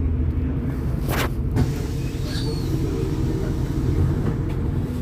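Steady low rumble of a MAZ-203 city bus's engine heard from inside the passenger cabin, with a brief hiss about a second in and a short high squeak a little later.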